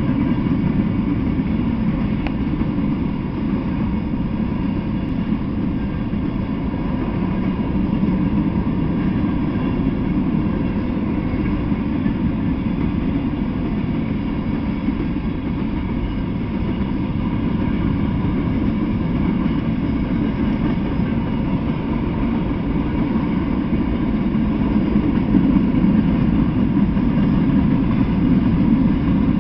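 Freight train cars, covered hoppers and then boxcars, rolling past on the rails: a steady low rumble of steel wheels on track that keeps on without a break.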